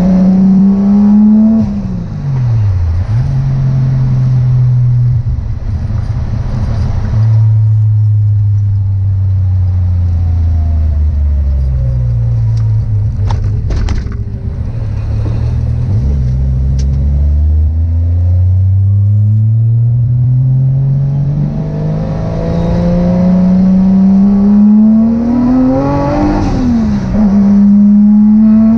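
Turbocharged Toyota 1JZ VVT-i straight-six pulling through the gears. The revs climb and fall sharply at an upshift about 2 seconds in, ease down slowly mid-way, then climb steadily to another sharp upshift near the end.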